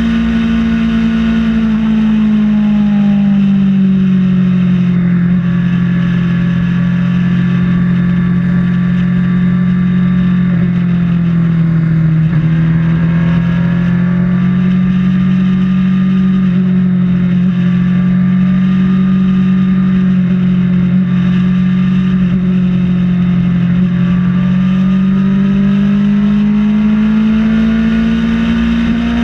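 Kawasaki Ninja ZX-6R's inline-four engine running at steady highway speed, its pitch easing down slightly a couple of times and rising again near the end, with wind rush on the helmet-mounted camera's microphone.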